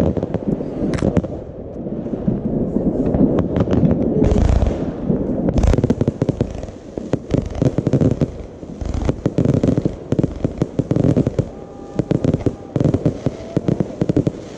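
Fireworks going off: dense rapid pops and crackles, with a heavier boom about four seconds in and a sharp bang near six seconds.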